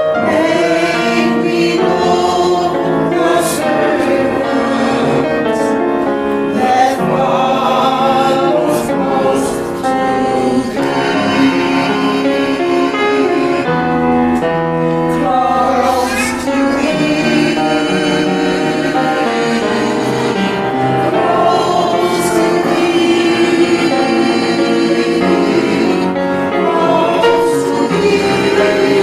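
A church choir singing, several voices together holding long notes with vibrato.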